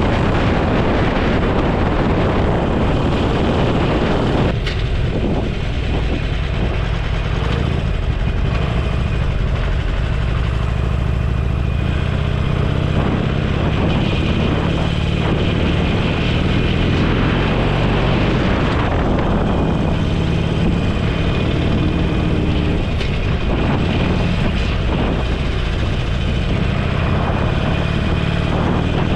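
Motorcycle engine running under way, with wind noise over the microphone. The engine note shifts in pitch a few times as the speed changes.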